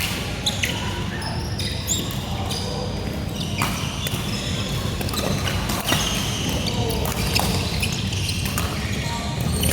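Badminton being played on an indoor court: sharp racket-on-shuttlecock hits and shoes squeaking and thudding on the court floor, over a steady hall hum and distant chatter.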